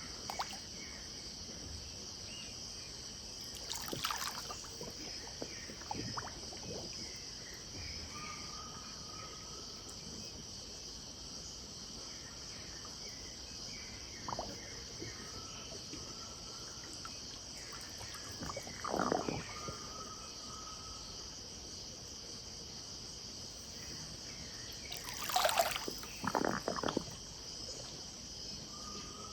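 Pantanal riverside ambience: a steady high chorus of insects with short whistled bird calls repeating through it. Brief splashes and trickles of river water come a few times, the loudest pair near the end.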